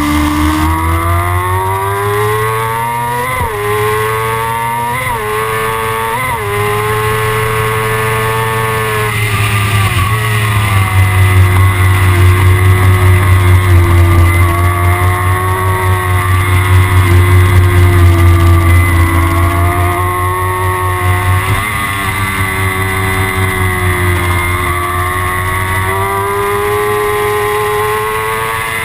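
Kawasaki ZX6R's inline-four engine running under way, its pitch rising and falling with the throttle. The pitch dips sharply and recovers several times, three of them in quick succession in the first few seconds, as when changing gear.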